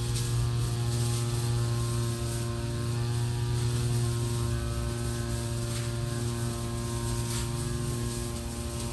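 A steady mechanical hum: a strong low drone with a ladder of even overtones above it, unchanging throughout, with a few faint short high ticks over it.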